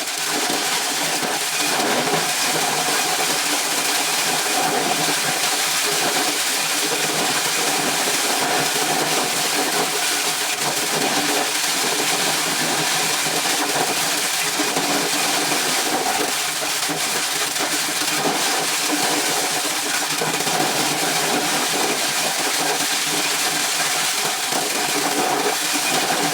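Corn-shelling machine running steadily: a continuous, even mechanical noise with no breaks.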